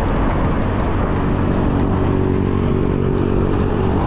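Street traffic noise heard while riding: a steady hum of a nearby motor vehicle's engine over an even rushing noise, the engine hum growing stronger about half a second in.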